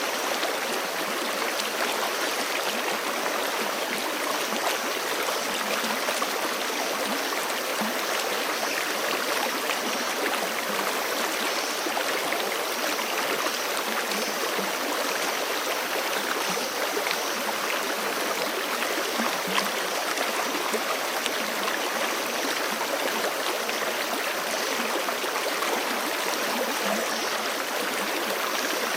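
Forest stream flowing steadily over rocks, a constant rush of water with small splashes and gurgles.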